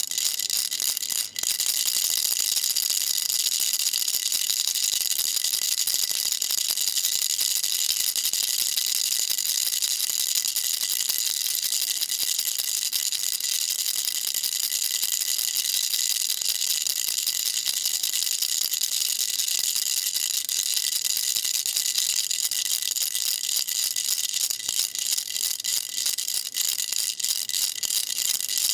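A baby rattle shaken continuously, its pellets making a dense, steady stream of fine high clicks, with a brief break about a second in.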